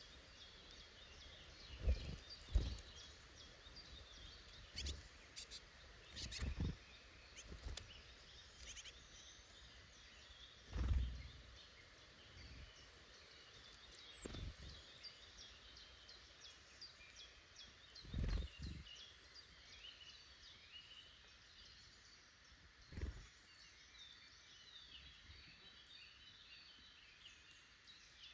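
Small woodland birds chirping and calling over a steady outdoor hiss, with several dull thumps a few seconds apart.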